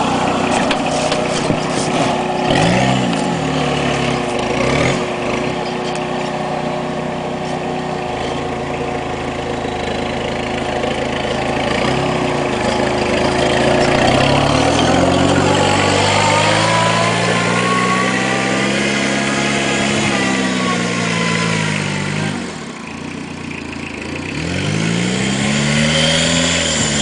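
Peugeot 306 1.9 turbo diesel engine being driven, revs rising and falling: two short blips in the first few seconds, a long climb and fall in the middle, a brief drop-off, then another climb near the end.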